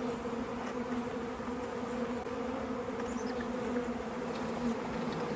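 A mass of Carniolan honeybees buzzing in a steady, even hum as they are let out of their package into a new hive.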